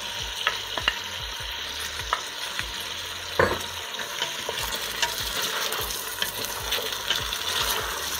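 Chopped vegetables sizzling in hot olive oil in a stainless steel pot while a wooden spoon stirs them, with scattered clicks and one louder knock about three and a half seconds in.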